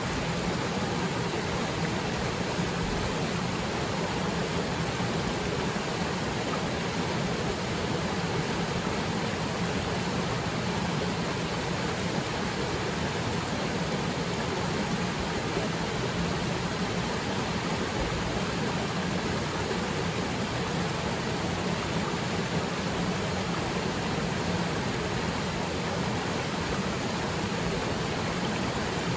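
Waterfall pouring into its pool: a steady, even rush of falling water, with rain falling onto the water's surface.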